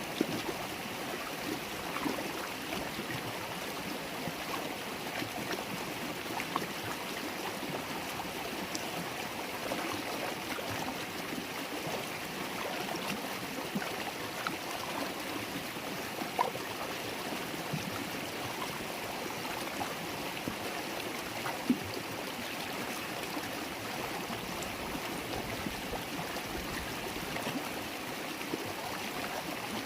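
River water babbling and gurgling steadily over stones, with small splashes and pops here and there.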